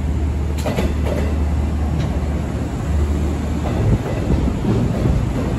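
Long Island Rail Road bilevel coach train rolling along the platform as it comes into the station, with a steady low hum from the train. There is a cluster of sharp wheel clicks about a second in.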